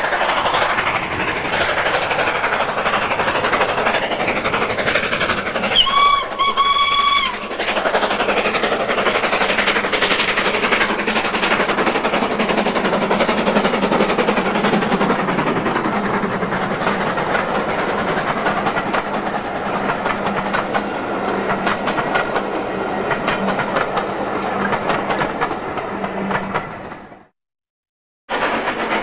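A heritage train running past with rail clatter, its whistle sounding two short blasts about six seconds in. The sound cuts out abruptly for about a second near the end, then picks up again.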